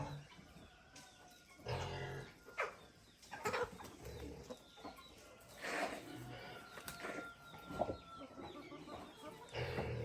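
Chickens clucking, in short separate calls every second or two, with a few sharp knocks among them.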